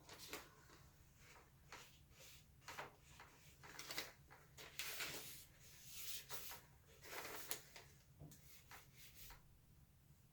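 Faint, irregular rubbing and scraping strokes, about a dozen of them, of red acrylic paint being worked over the sides of a canvas.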